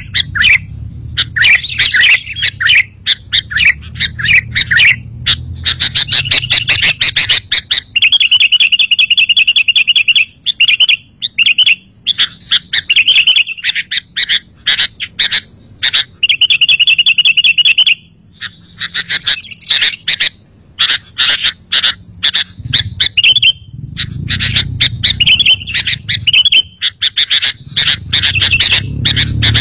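Sooty-headed bulbuls calling and singing in quick, bubbly chirps and warbled phrases, with fast trills about a third and halfway through. A low rumble comes in near the end.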